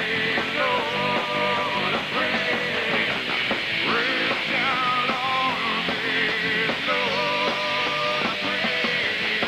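Rock band playing a song: electric guitar and drums, with a sung melody line over them.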